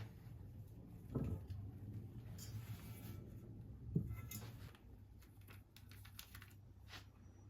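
Quiet handling of small objects: scattered light clicks and taps, with a soft thump about a second in and a sharper knock about four seconds in, over a low steady hum.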